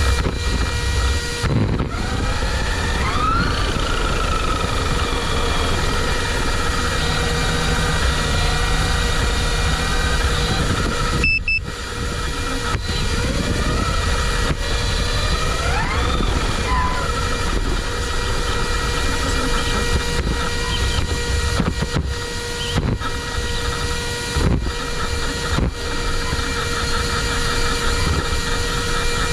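RC car's brushless electric motor whining, its pitch rising twice as the car speeds up, over steady electrical hum and hiss. The audio cuts out briefly twice.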